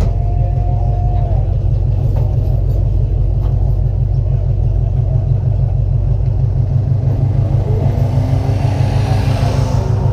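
Race car engine running with a heavy, rapidly pulsing low rumble, close to the microphone. Fainter engine tones rise and fall behind it, and a hissing swell builds near the end.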